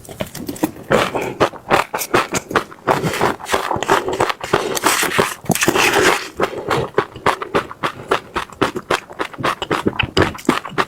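Close-miked chewing of crunchy seeds, passion fruit seeds cracking between the teeth in a fast, uneven run of sharp crunches and clicks, with wetter mouth sounds in between.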